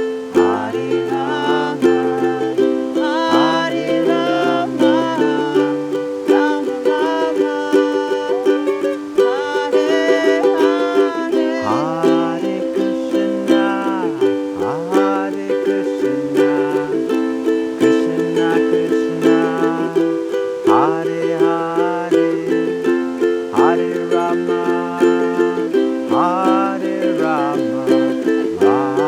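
Kirtan music with ukulele, sustained chord tones shifting every few seconds under a melody line that bends up and down.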